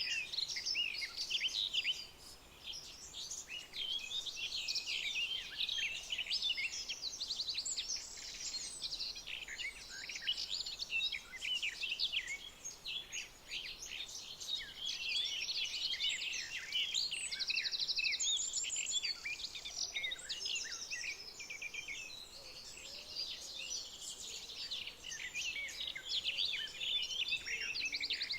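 Dense chorus of many birds chirping and twittering, their quick calls overlapping without a break, with a few short buzzy trills.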